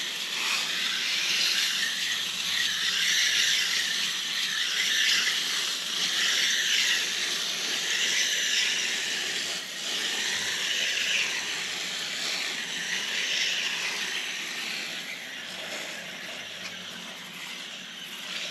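Hand-pumped pressure spray bottle hissing steadily as it sprays water onto an RV air conditioner's evaporator coil, rinsing the foaming coil cleaner and loosened dirt out of the fins.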